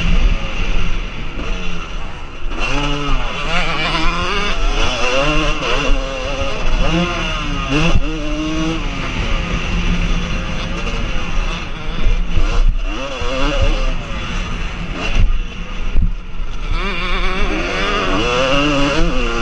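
Motocross motorcycles revving and accelerating, the engine pitch climbing and dropping again and again as throttles open and close, with several bikes heard at once.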